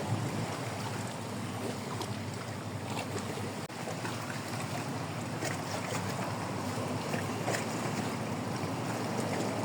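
Steady wind and water noise, with wind rumbling on the microphone and a few faint ticks.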